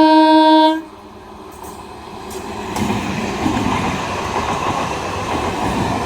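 Train horn sounding a long, steady blast that cuts off just under a second in, then a train's wheels rumbling and clattering on the track, growing louder over about two seconds and holding steady as it passes.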